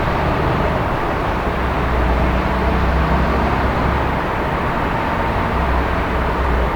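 Steady city traffic noise: an even wash of sound over a low rumble, with no single vehicle standing out.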